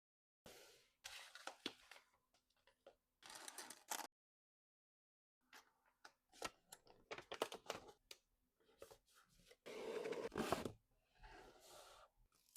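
Close-up handling sounds from packing nail-art products: short bursts of rustling and scraping mixed with many small sharp clicks, with a pause of quiet about four seconds in and the longest, loudest rustle near the ten-second mark.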